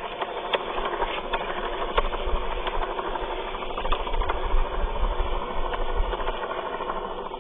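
Small DC gear motors of a homemade toy tractor running steadily: a continuous whir with gear rattle and scattered clicks.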